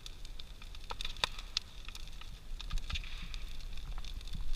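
Large wood-pile bonfire burning, crackling with sharp, irregular pops over a steady low rumble.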